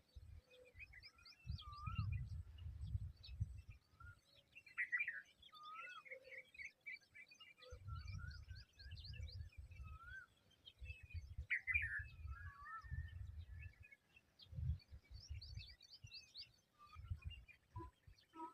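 Wild birds chirping and calling: many short chirps and some whistled, bending notes, several birds of different kinds. Irregular low rumbles come and go underneath.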